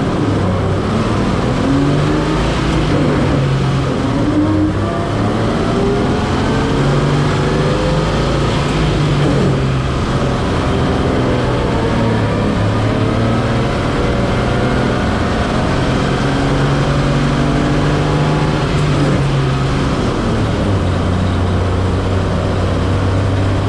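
Old 1941 truck's engine pulling away from a stop and accelerating, its pitch climbing again and again as it goes up through the gears, then running steadily near the end.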